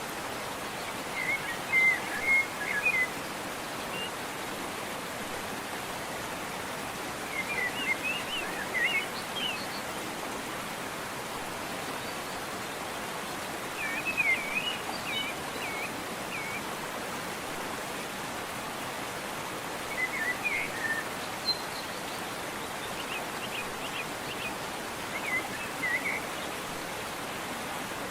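Steady rushing of a waterfall, with a songbird singing short phrases about every six seconds, five times in all.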